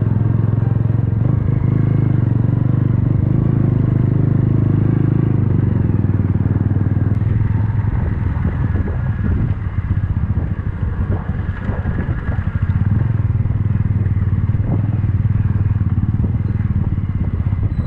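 Motorcycle engine running under the rider as the bike rides along, heard close up. The note is steady at first and turns more uneven, rising and falling, in the second half.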